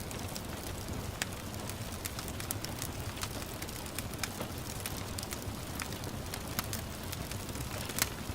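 Wood fire crackling in a fireplace, with irregular sharp pops over a steady hiss of rain; one louder pop comes near the end.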